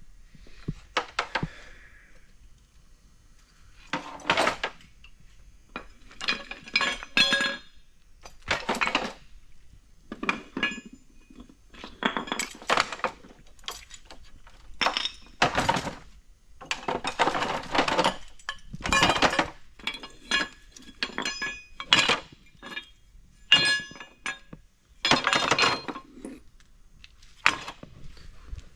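Used cast-iron brake calipers and brackets being rummaged through in a bucket, clanking and clinking against each other over and over, many knocks leaving a brief metallic ring.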